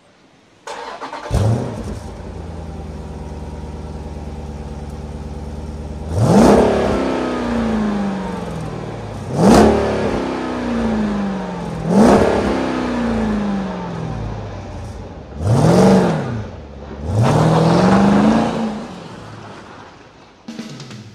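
An American car's V8 engine starts about a second in and settles into a steady idle, then is revved five times, each rev rising sharply and falling back to idle, the last held a little longer.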